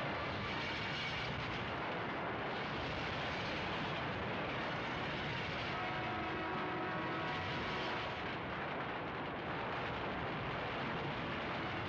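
A train running, heard as a steady, even noise, with faint held tones that come and go.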